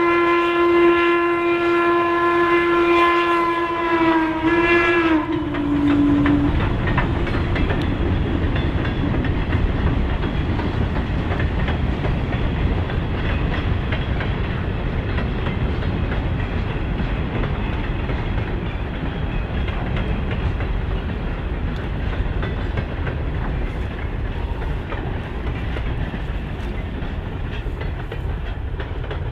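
A train sounds one long warning blast that sags in pitch as it ends about five seconds in, followed by the steady low rumble of the train running by.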